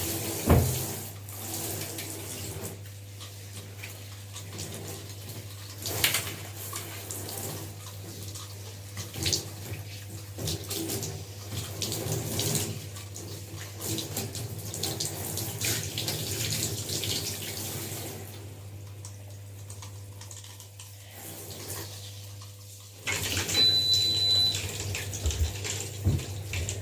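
Tap water running and splashing as hair is wetted before shampooing, over a steady low hum. The water goes quieter for a few seconds and picks up again near the end.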